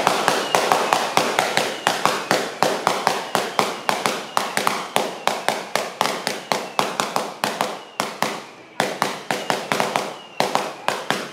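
Firecrackers going off in rapid, irregular sharp cracks, dense at first, then spacing out and stopping near the end.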